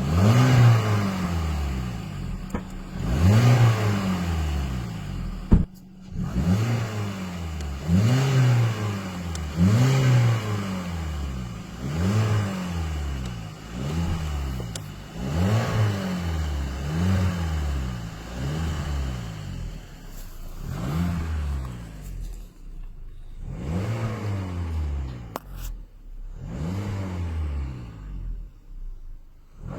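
Car engine revved in short blips by pumping the accelerator pedal, about one every two seconds. Each rev rises in pitch and falls back towards idle.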